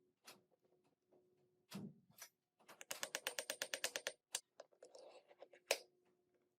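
Workshop clicks and knocks of hand tools on metal: a few scattered knocks, then a fast run of about a dozen clicks a second lasting just over a second, and a single sharp knock near the end.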